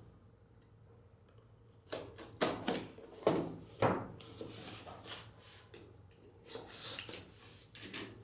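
A cardboard mailer box is handled on a wooden table while its packing tape is cut with a box cutter: after a near-silent start, about two seconds in come a few sharp knocks and clicks, then softer scraping and rustling.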